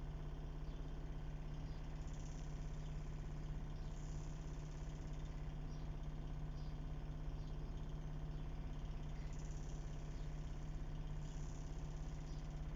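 A vehicle engine idling: a steady, even low hum that holds at one pitch and level throughout.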